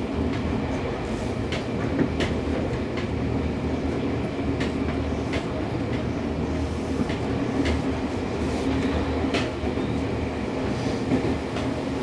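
Inside a Seibu 6000 series electric train car running at speed: a steady rumble of wheels and running gear, with sharp clicks about once a second as the wheels cross rail joints.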